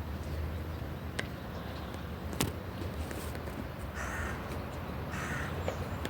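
A bird gives two short, harsh caws about a second apart, over a steady low rumble, with a few sharp clicks, the loudest about two and a half seconds in.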